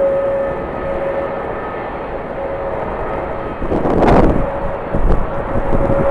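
Jet airliner engines running with a steady whine, under the noise of strong wind on the microphone, which swells to its loudest about four seconds in.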